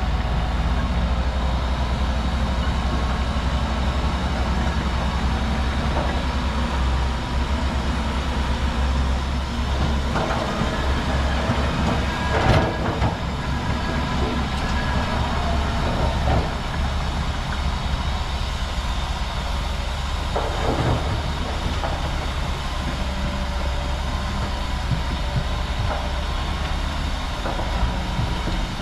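Bulldozer's diesel engine running steadily with a deep rumble, and a few metallic clanks from the machine, the loudest about halfway through.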